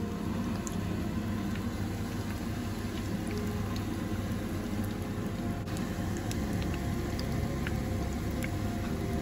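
Tuna fish patties shallow-frying in hot oil in a nonstick pan: steady bubbling sizzle with scattered small pops of oil.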